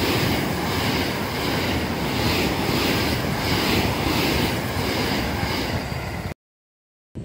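JR West limited express electric train passing through a station at speed: a steady rushing rumble with a beat about twice a second, cutting off abruptly near the end.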